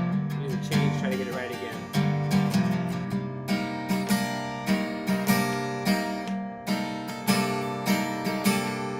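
Guitar strumming open chords in a steady, rhythmic pattern with accented strokes: an E-minor-key progression of E minor, A minor 7, C and B7.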